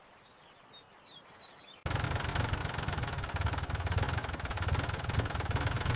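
Motor boat engine cutting in suddenly about two seconds in and then running steadily. Before it, a few faint high chirps.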